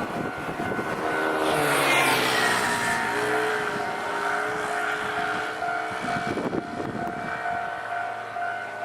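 Nankai Electric Railway train passing at a level crossing: the sound swells about a second and a half in, with a whine that falls in pitch, then steady tones carry on to the end.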